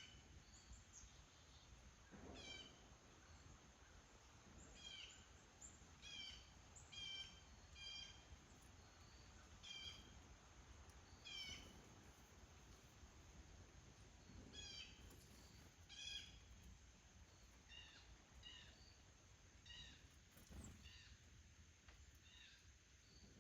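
A bird calling over and over, faint: short notes that fall slightly in pitch, about one every one to two seconds, over a low background rumble.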